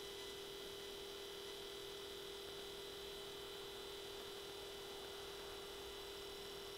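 Steady, unchanging electronic-sounding tone: a low hum with a higher whine above it over faint hiss.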